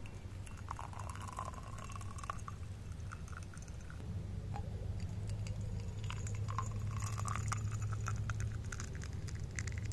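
Crunching and chewing as the flaky oil bread is bitten and eaten, with many sharp crackling clicks, busiest in the second half.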